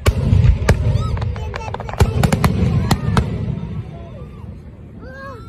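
Fireworks display: aerial shells bursting with sharp bangs in quick clusters over a low rumble, easing off after about three seconds. Onlookers' voices call out between the bangs.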